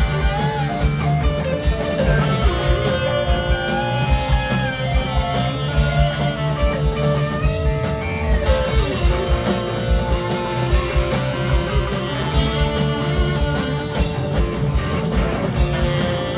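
Rock band playing an instrumental passage: a melodic guitar line with gliding, bent notes over a steady drum kit and bass.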